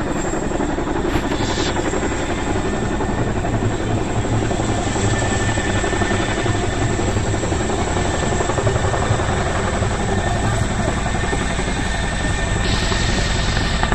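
Chinook tandem-rotor helicopter flying close by at full power, a loud, steady rotor beat and engine noise. A brief hiss comes near the end.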